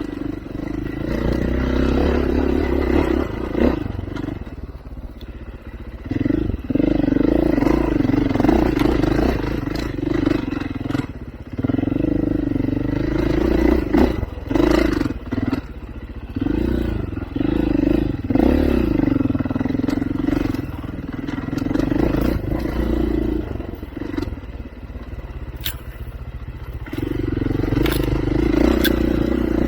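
Off-road vehicle engine working along a rough trail, its note swelling and easing off every few seconds, with clatter and sharp knocks over it.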